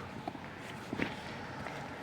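Footsteps of a person walking outdoors, a few separate steps over a steady background hiss.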